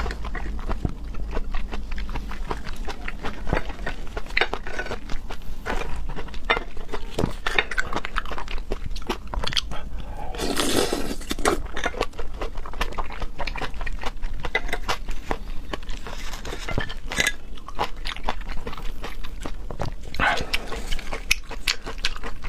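Close-miked chewing and biting of raw seafood, with many small wet mouth clicks throughout and two longer, louder wet bursts, one about halfway through and one near the end.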